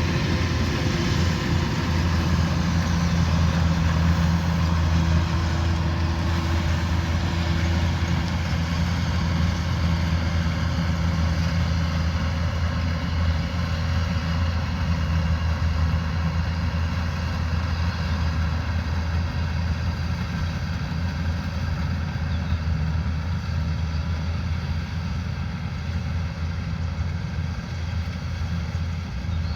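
Kubota combine harvester's diesel engine running steadily with a low, even hum, easing slightly in level near the end.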